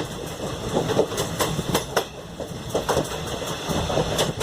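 Passenger train coach running along the track, its wheels clattering over rail joints: a steady rumble with a rapid run of sharp clicks at uneven spacing.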